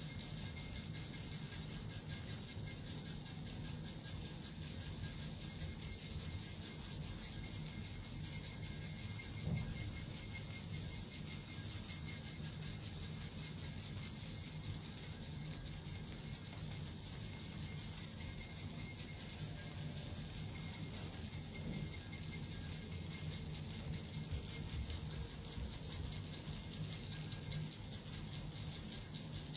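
Small Japanese jingle bells (suzu) shaken continuously, giving a steady, unbroken shimmering jingle with a high ringing tone.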